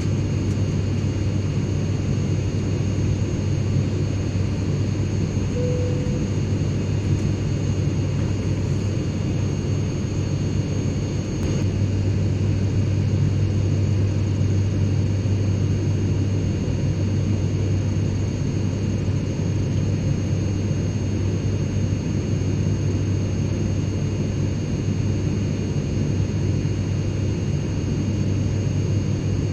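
Airliner cabin in cruise: a steady engine and airflow drone with a strong low hum and faint steady whine above it.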